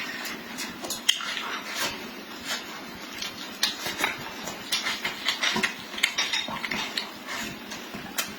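A person eating close to the microphone: irregular wet chewing and smacking clicks, several a second, with light clinks of dishes and cutlery.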